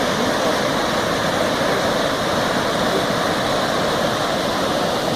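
Waterfall pouring into its pool, a steady rushing of falling water.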